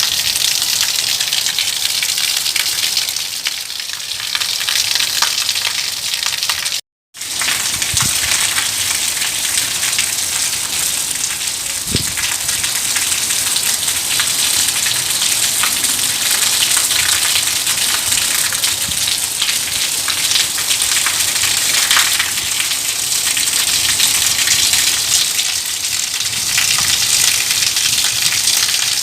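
Steady heavy rainfall, a dense patter of drops hitting a surface. The sound cuts out completely for a split second about seven seconds in.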